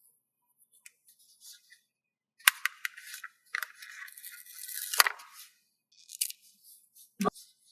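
Paper stickers being handled: crinkly rustling of paper and sticker sheet in short bursts, with sharp taps about two and a half and five seconds in and a duller knock near the end.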